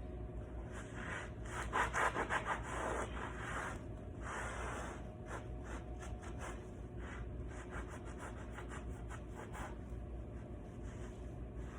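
Repeated rubbing and wiping strokes of a towel scrubbing up spilled oil, a quick flurry about two seconds in, then slower scattered strokes.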